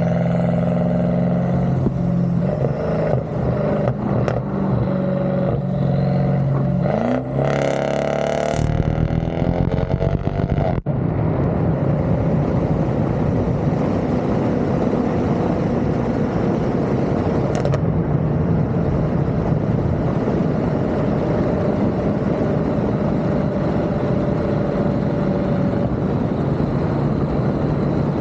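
BMW 6 Series' N63TU 4.4-litre twin-turbo V8 engine and exhaust running with a steady note, revving up with a rising pitch about eight seconds in. For the rest it runs on with a denser, noisier sound.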